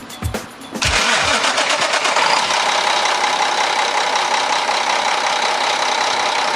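Mack E7-350 diesel engine of a heavy tractor truck running steadily, starting about a second in after a few final plucked notes of intro music.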